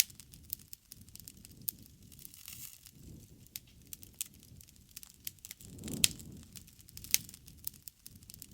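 Campfire crackling: irregular sharp pops and snaps over a low steady burning sound, the loudest pop about six seconds in.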